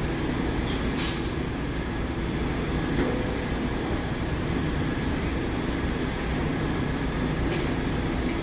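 New York City subway train running with a steady rumble, with two short hisses, one about a second in and one near the end.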